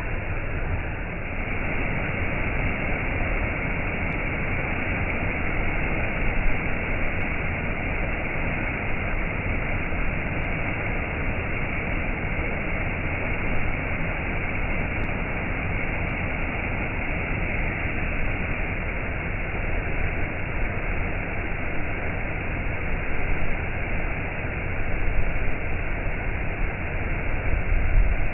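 Waterfall: falling water rushing in a steady, even roar of noise, with small swells in level.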